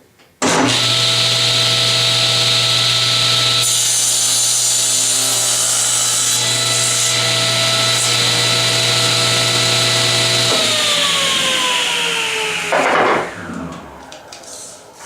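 General Model 350 cabinet table saw switched on, running up to speed with a steady motor hum and blade whine, and crosscutting the cracked end off a yellow poplar board partway through. It is then switched off and coasts down, its whine falling in pitch, with a brief loud noise as it slows.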